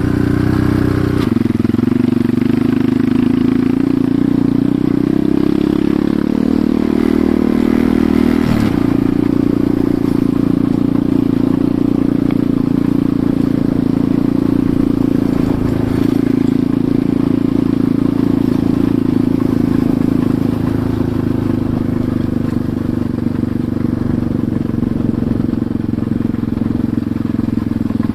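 Enduro motorcycle engine running while riding: the revs climb and then drop sharply about eight seconds in, and hold steady after that.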